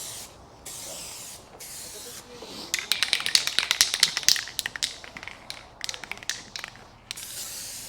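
Aerosol can of clear coat spraying in short hissing bursts, then for about four seconds in the middle a rapid rattle of sharp clicks as the can is shaken and its mixing ball knocks inside, before spraying resumes near the end.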